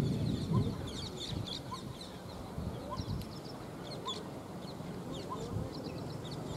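Birds chirping: many short, high chirps with a softer note repeating about once a second. A low rumble fades out in the first half second.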